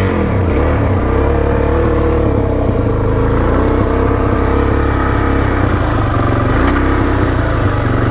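Motorcycle engine idling loud and steady, just after being started.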